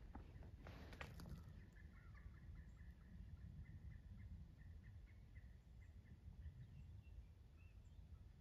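Quiet woodland with a bird giving a run of short, repeated chip notes, about three a second, over a low rumble of wind. A few faint crackling clicks come in the first second or so.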